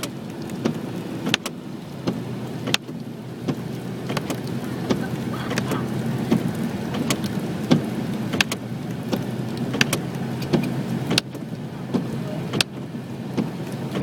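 Steady vehicle engine and road noise in traffic, with scattered sharp clicks and taps.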